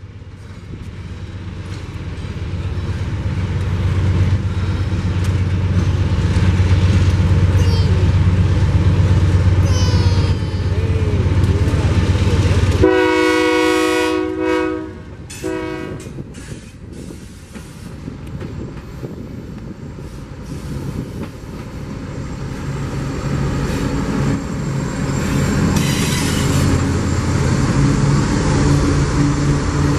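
A Union Pacific diesel freight locomotive passes close by, its engine rumble growing loud. About halfway through, a train horn sounds one long blast and then a short one. After that the freight cars roll past with a steady clatter of wheels on rail.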